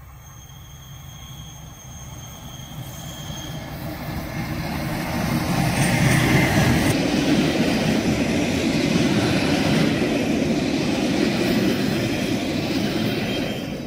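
Red metre-gauge Matterhorn Gotthard Bahn passenger train approaching and passing close by: the rumble of wheels and running gear on the rails grows louder over the first six seconds, then stays loud as the carriages go past. Thin high squealing tones sound over it in the first few seconds.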